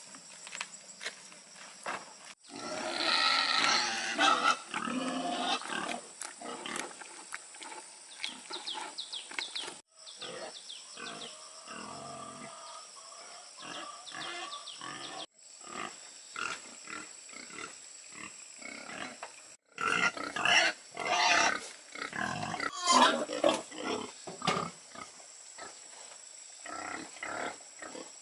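Pigs squealing and grunting in short, overlapping calls, loudest a few seconds in and again about twenty seconds in.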